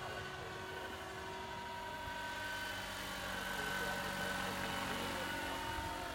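Radio-controlled Jet Ranger scale model helicopter in flight, its motor and rotors running with a steady whine that grows a little louder about halfway through.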